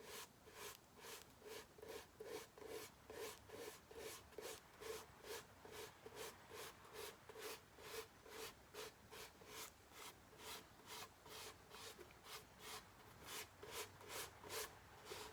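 Faint, even scratchy strokes repeating about three times a second, like something rubbed or ticking at a steady pace.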